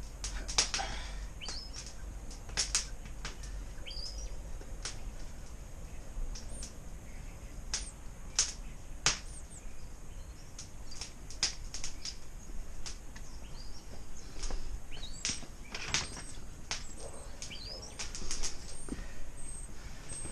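Small birds chirping now and then, with irregular sharp clicks and taps throughout; no engine is running.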